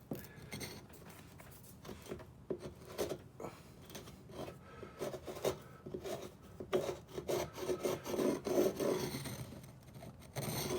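Hand tool scraping old caulking out of a teak deck seam in a run of short, irregular strokes.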